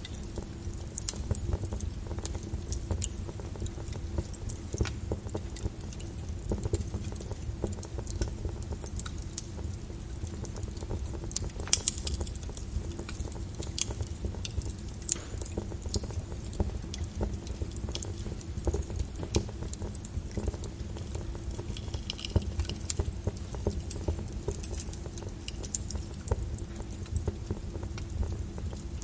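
Wood fire crackling in a fireplace: irregular snaps and pops over a low rumble, with one louder pop about twelve seconds in.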